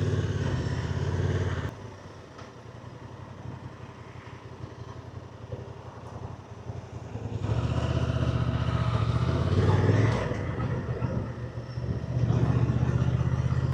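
Motorcycle engine running under way: it falls quieter about two seconds in, then picks up loud again about seven and a half seconds in, with further rises and dips in pace after that.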